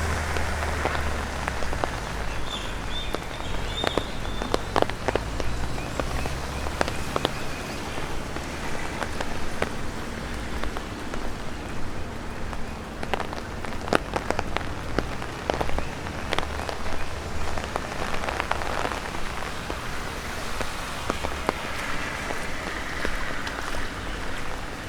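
Steady rain with many irregular sharp taps of drops falling from the trees onto an umbrella, over a low steady rumble.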